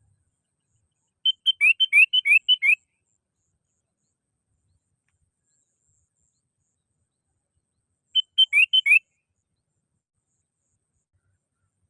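Sooty-headed bulbul (kutilang) singing: two short phrases of quick, clear whistled notes, alternating a level note with rising slurs. The first phrase comes about a second in and lasts about a second and a half; the second, shorter one follows several seconds later.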